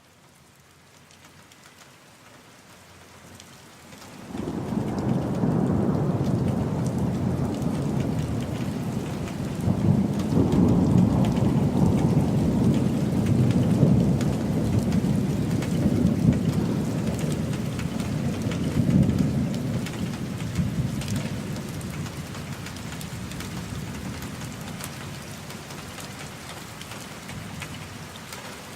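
Thunderstorm: rain hiss fades in, then a long rolling rumble of thunder begins about four seconds in. The rumble swells several times before slowly dying away over steady rain.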